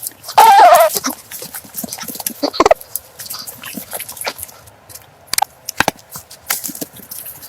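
An animal call with a wavering pitch, lasting about half a second, near the start, followed by scattered clicks and knocks.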